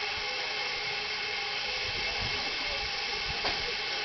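Steady hiss of steam from a 7¼-inch gauge miniature steam locomotive, with a single click about three and a half seconds in.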